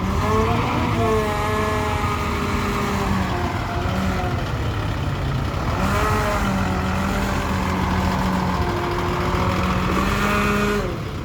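A heavy vehicle's engine running and revving, its pitch rising and falling slowly over a steady low rumble.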